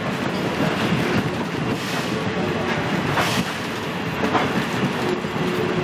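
Steady rumble and clatter of a passenger train's wheels rolling on the track, heard from an open-sided coach.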